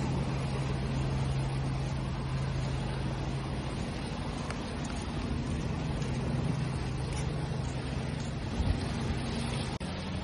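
Steady wash of ocean waves with a low, steady mechanical hum running underneath.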